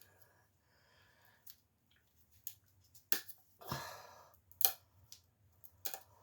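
Painting supplies being handled on a work table: a series of sharp clicks and taps, with a short rustling scrape about midway.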